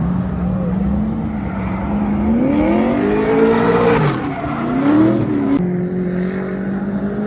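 Car engine running with a steady drone and revving up twice: a long rise and fall in pitch about two and a half seconds in, then a shorter one around five seconds.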